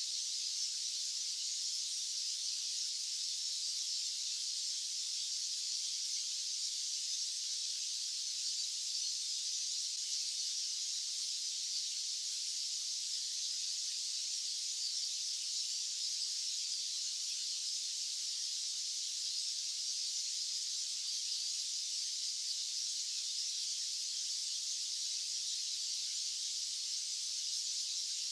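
Steady, unchanging white-noise hiss, high-pitched and even, with no low rumble.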